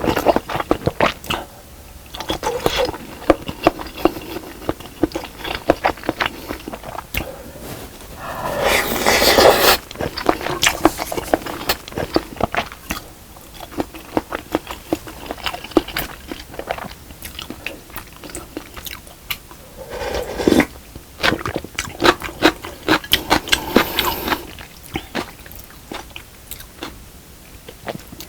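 Close-miked eating: a person chewing and biting through fish cake, rice cake and kimchi, with many crisp crunches and wet clicks. About eight to ten seconds in there is a longer, louder noisy stretch.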